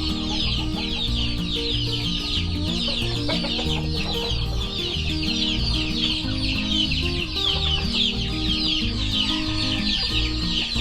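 Chickens clucking and chirping continuously in a dense, high chorus, with low held notes of background music underneath.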